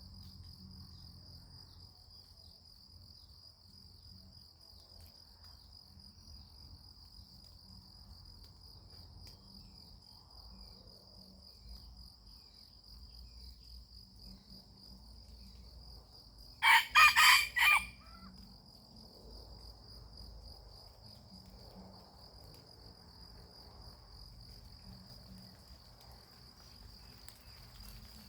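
A rooster crows once, loudly, about two-thirds of the way in, a call of about a second in a few broken parts. A steady high-pitched insect drone runs underneath.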